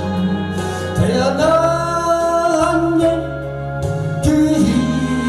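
A male singer performing a Korean gospel song with instrumental backing. About a second in he slides up into a long held note.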